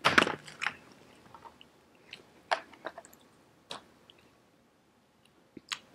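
Close-miked mouth sounds of eating seafood-boil crab and mussels: wet chewing and lip smacks, a handful of short separate smacks, loudest right at the start.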